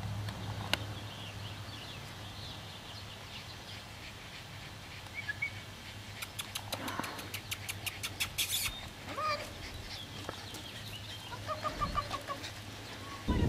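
Quiet outdoor ambience with faint bird calls, and a rapid run of clicks about halfway through.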